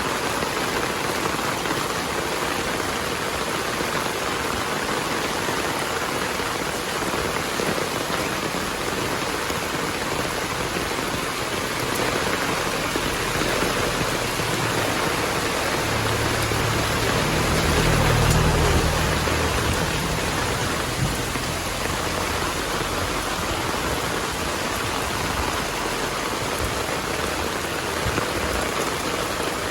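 Heavy rain falling steadily. A low rumble of thunder builds just before the middle and peaks a little past it, then fades.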